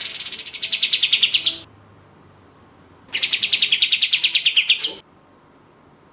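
Kapas tembak bulbul calling: two fast rattling trills, each lasting about one and a half to two seconds, separated by a short pause. The first trill starts higher and drops in pitch.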